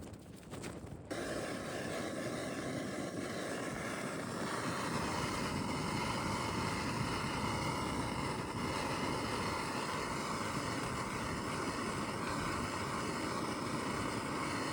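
Gas camping stove burner running with a steady, even roar, cutting in abruptly about a second in.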